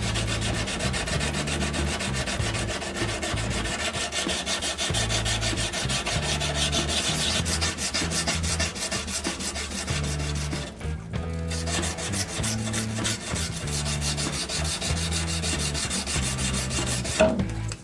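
Rapid, even strokes of something abrasive rubbing on a surface, like hand sanding or filing, keeping up without a break.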